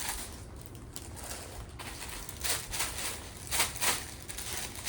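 Plastic packaging rustling and crinkling in several short bursts as items are handled during unpacking.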